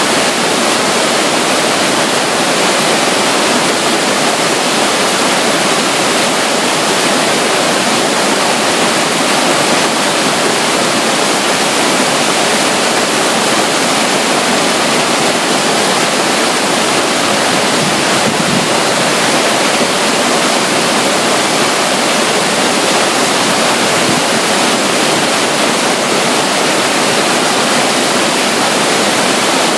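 Steady rush of running water at a waterfall, a loud even hiss with no breaks or changes.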